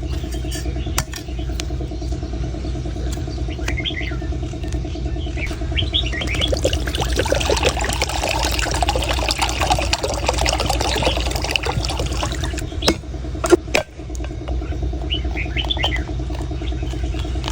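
A few sharp knife strikes on a coconut, with a stretch of liquid pouring and splashing in the middle, over a steady engine hum.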